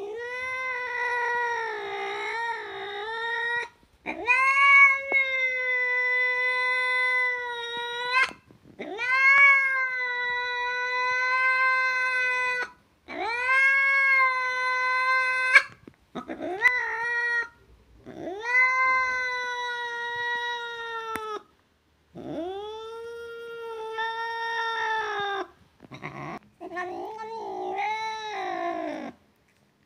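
A cat yowling: a series of about eight long, drawn-out meows, each lasting two to four seconds with short pauses between, some wavering up and down in pitch.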